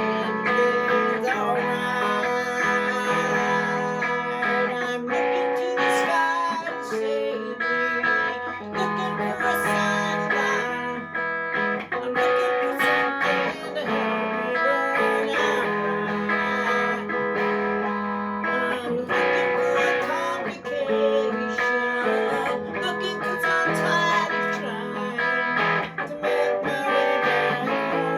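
Guitar music, plucked and strummed notes playing steadily.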